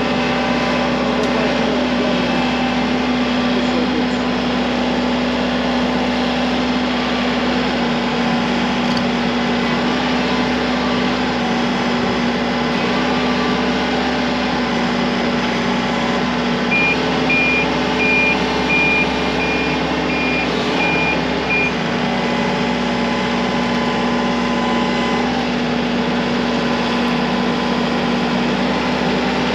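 Heavy equipment's diesel engine running steadily. A little past halfway, a backup alarm sounds about nine evenly spaced beeps over some five seconds.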